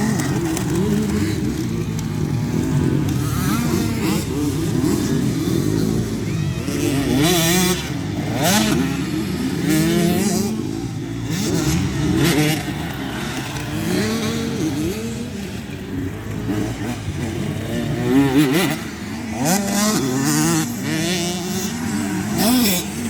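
Several motocross bikes racing round the track, their engines revving up and dropping back over and over with throttle and gear changes, overlapping each other.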